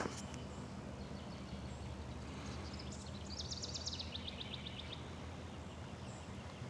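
A songbird's rapid trill of high repeated notes falling in pitch, lasting about a second and a half midway through, over a steady low rumble.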